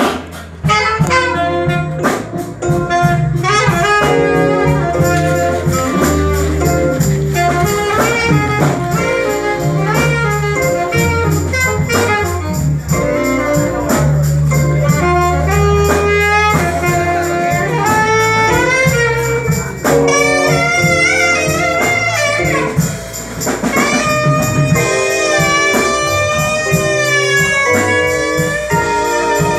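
Live band playing jazz-style instrumental music: a lead melody line plays fast runs, then held, wavering notes near the end, over steady bass and drums.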